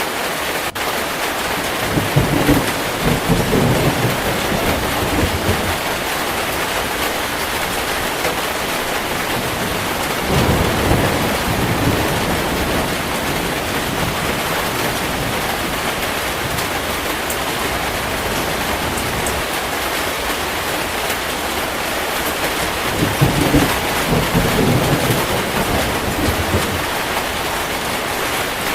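Heavy steady rain with thunder rumbling three times, a few seconds in, around the middle and near the end.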